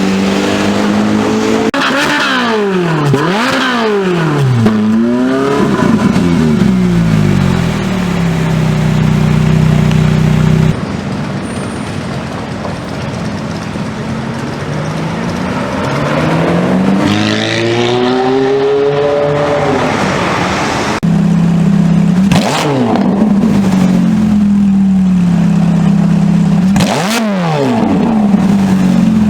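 Ferrari engines in a run of short clips: revving up and down in quick sweeps, accelerating through rising gears, and cars passing close by with a quick drop in pitch. Between these, an engine holds a steady note.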